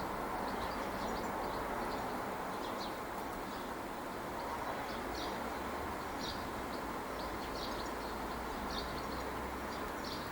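Small birds chirping, short high calls scattered every second or so, over a steady background rumble.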